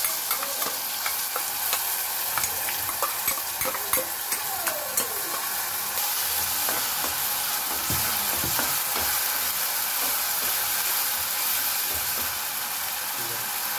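Onion, garlic, ginger and green chilli paste sizzling in hot oil in a metal kadhai as it is stirred with a steel spoon. The spoon scrapes and clicks against the pan, most often in the first few seconds, over a steady frying hiss.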